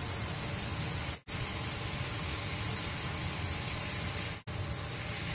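Sliced banana blossom and long beans frying in a wok: a steady sizzling hiss. It cuts out for an instant twice.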